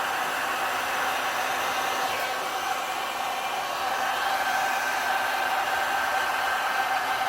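Heat gun blowing steadily, a continuous airy rush with a faint steady whine, used to move and set wet alcohol ink on a tumbler.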